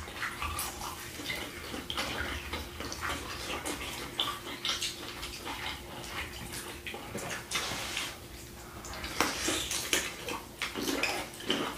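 Close-miked eating sounds: wet chewing and mouth smacking on sauced shrimp and mashed potatoes, a steady run of small wet clicks and squelches.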